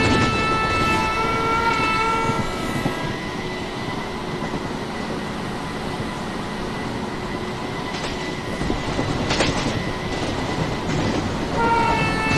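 A train's multi-tone horn sounds for about two seconds. It stops, leaving the steady rumble of the train rolling on the rails, with a few sharp clanks a little after the middle. The horn sounds again near the end.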